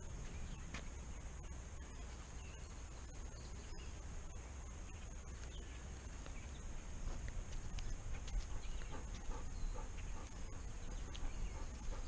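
Handling noise from a GoPro worn on a walking dog's harness: soft footfalls, rustling and scattered light clicks over a low rumble, with a steady high-pitched hiss.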